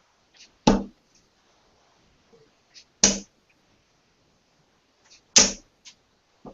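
Three darts striking a dartboard one after another, about two and a half seconds apart, each a sharp thud.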